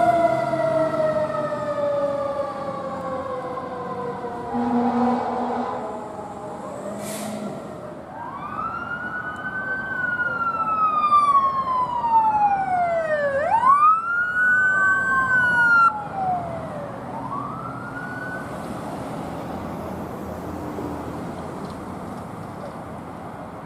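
Emergency vehicle siren passing. A tone slides slowly down in pitch over the first several seconds, then the siren rises and falls in a wail through several cycles and fades toward the end, with vehicle and road noise underneath.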